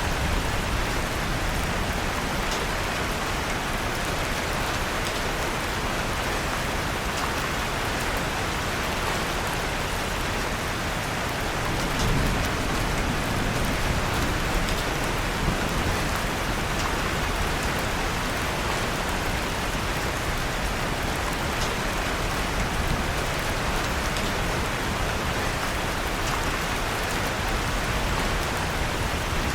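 Steady rain falling, mixed with the occasional small crackle of a wood fire burning in a fireplace.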